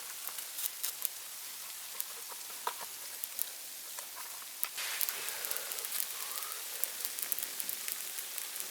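Small campfire of damp wood crackling, with irregular sharp pops over a steady hiss.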